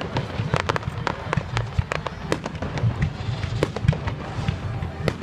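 A fireworks display going off: a rapid, irregular run of sharp bangs and crackles over a continuous low rumble of explosions.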